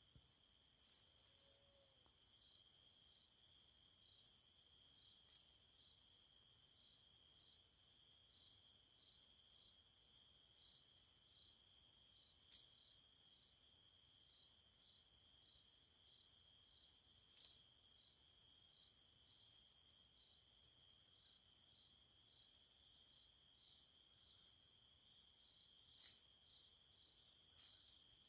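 Faint night insects: a steady high-pitched trill with a regular chirp pulsing about twice a second, and a few sharp clicks.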